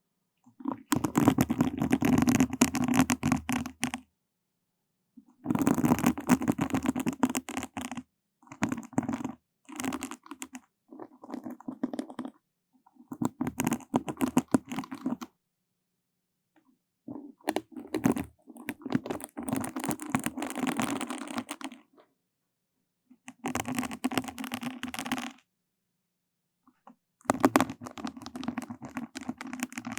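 Close-miked scratchy, crackling friction of floss being drawn against the microphone as an ASMR trigger. It comes in about nine bursts of one to three seconds, each cutting off into silence.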